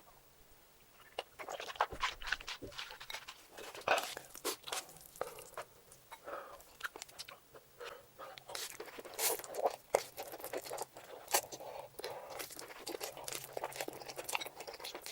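Close-miked eating sounds: a person chewing and crunching food, a dense run of short wet clicks and crackles.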